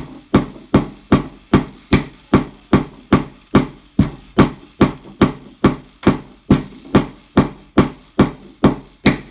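A small hammer driving a short nail into a wooden kit piece with steady, even taps, about two and a half blows a second.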